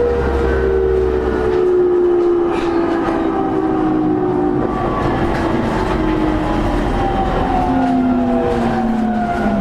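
E231 series commuter train heard from inside a motor car: the traction motor and inverter whine, several tones together, falls steadily in pitch as the train slows for a station stop, over the steady rumble of wheels on rail.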